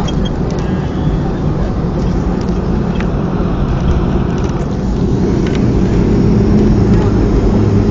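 Cabin noise inside a Boeing 737-300 on the ground just after landing: a steady low rumble from the engines and the wheels rolling, with a few light rattles. The engine hum grows a little louder about five seconds in.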